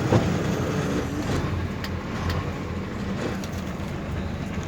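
A vehicle's engine running steadily with a low rumble, with one short knock just after the start.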